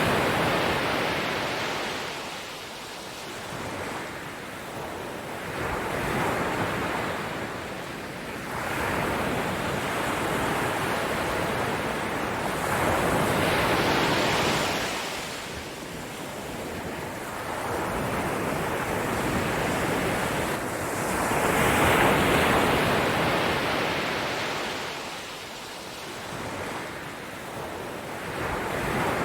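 Surf washing in: a rushing noise that swells and fades about every seven to eight seconds.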